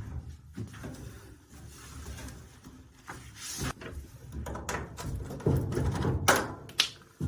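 Irregular knocks, rattles and scrapes of things being handled, loudest a little after six seconds in, over a low steady hum.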